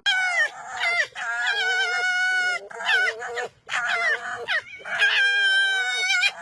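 An animal calling over and over: about six wavering calls with a clear pitch, some short and two drawn out for more than a second.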